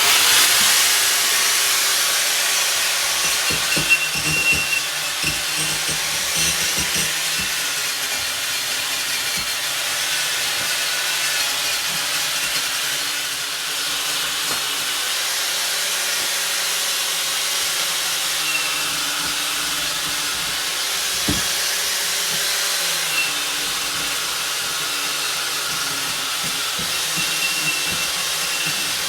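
Wire wheel on a bench grinder spinning against steel, a harsh steady hiss that starts abruptly and holds without a break over a faint motor hum.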